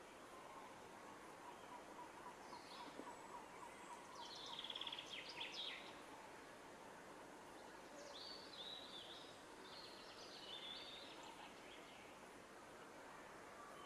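Faint songbird singing over a steady background hiss: two phrases of quick high notes, one a few seconds in and another about two-thirds of the way through.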